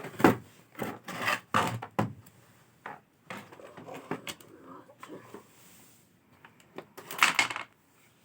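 Objects being handled: a run of short knocks and clatters, about two a second over the first two seconds, then quieter rustling and clicks, and a louder rustling burst near the end.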